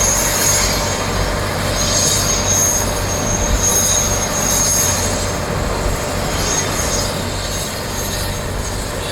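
Helicopter running: a steady rush of rotor and engine noise with a high turbine whine that comes and goes.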